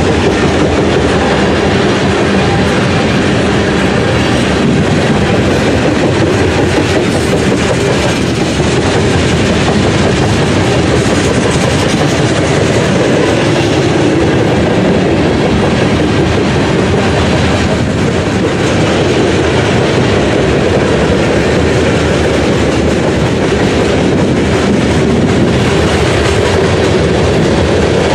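BNSF freight train's tank cars rolling past close by: a loud, steady rumble of steel wheels on rail.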